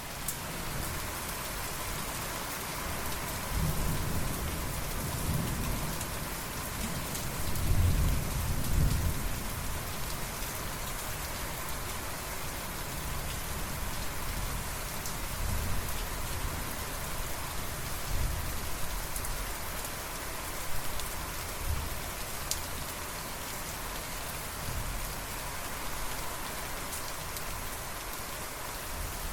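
Steady rain falling, with thunder rumbling low and deep, building to its loudest about eight seconds in and fading over the next few seconds, then a few fainter low rumbles.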